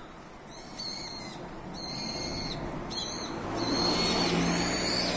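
Birds singing in a run of clear, high whistled notes, each held for under a second, about four in a row. A low rumble swells under them in the second half.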